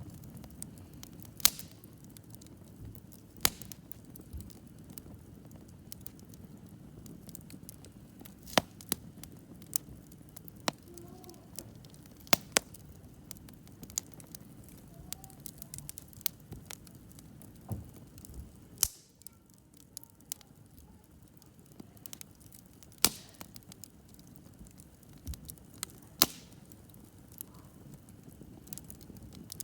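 Wood fire crackling, with irregular sharp pops every second or two, a few much louder than the rest, over a low steady rush.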